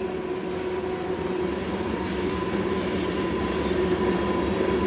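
Freight train cars rolling past: a steady rumble of wheels on rail with a steady ringing tone over it, slowly growing louder.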